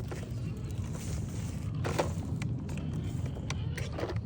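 Radio-controlled crawler's electric motor and drivetrain running with a steady low hum. A few sharp knocks come as the truck's tyres and chassis hit the log; the loudest is about two seconds in.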